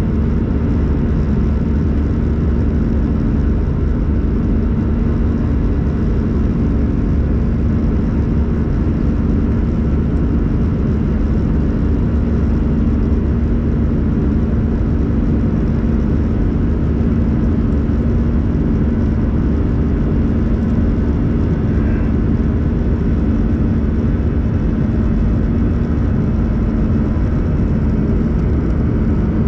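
Steady cabin noise of an Airbus A321-111 in flight, heard from a window seat: an even rush with a low, unchanging drone from its CFM56 engines.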